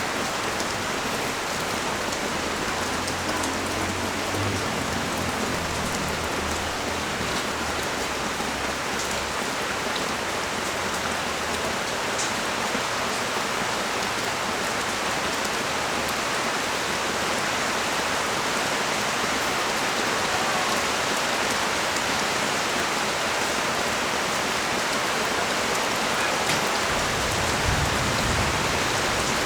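Rain falling steadily, an even hiss of drops. A low rumble runs underneath from about two to nine seconds in, and another comes in near the end.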